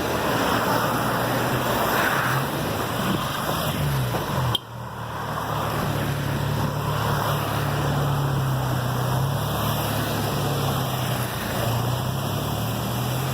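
A steady rushing noise with a low, slightly wavering engine drone underneath. It breaks off abruptly about four and a half seconds in, then resumes.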